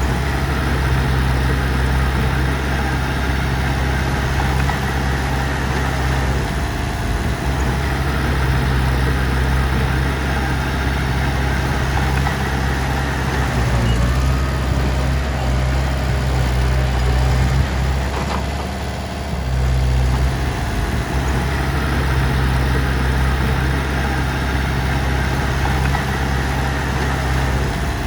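Heavy machinery diesel engine running steadily at a low drone, easing off briefly about two-thirds of the way through.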